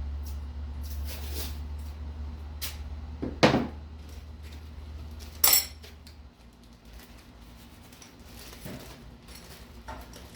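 Loose metal engine parts being handled and set down. There are scattered clicks and rattles, a loud knock about three and a half seconds in, and a ringing metallic clink about two seconds later. A low hum runs underneath and stops about six seconds in.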